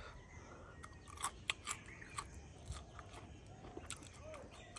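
Close-up chewing of a cooked silkworm and spider dish, with three sharp crunches between about one and two seconds in and a few softer clicks after.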